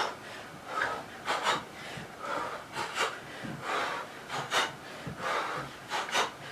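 A person breathing hard in short, sharp puffs, often in pairs and about two a second, while throwing uppercuts in a kickboxing workout, with scuffs of movement.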